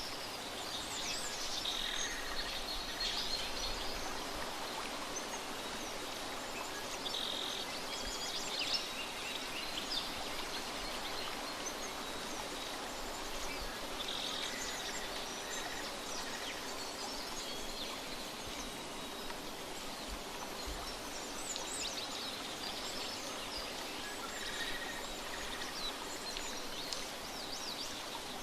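Nature ambience: a steady hiss of flowing water, with birds chirping and calling on and off above it.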